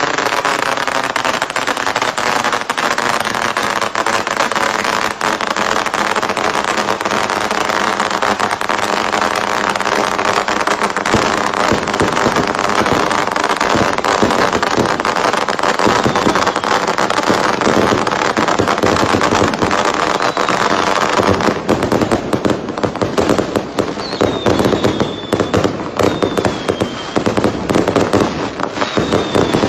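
Fireworks going off: a continuous loud hissing crackle with a steady hum under it, turning about two-thirds of the way in into a dense, irregular run of sharp crackling pops.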